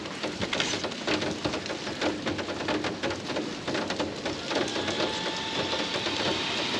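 Steady rain pattering, a dense run of sharp drop impacts over a hiss of falling rain.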